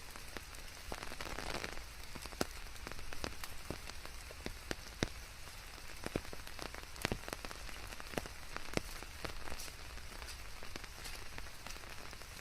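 Steady rain: an even hiss with many separate drops landing as sharp taps, and a brief louder rush of rain about a second in.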